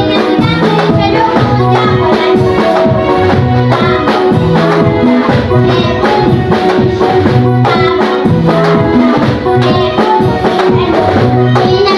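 Children singing a church song over band accompaniment, with a steady repeating bass line and shaken percussion keeping the beat.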